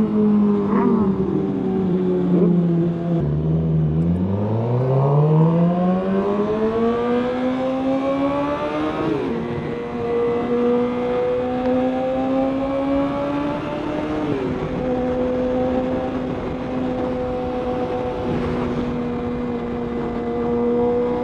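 Inline-four sport bike engine heard on board. Its revs drop about three seconds in, then climb smoothly as the bike accelerates, with a gear change near fourteen seconds, and settle into a steady cruise over wind rush. Another bike's engine briefly crosses it about a second in.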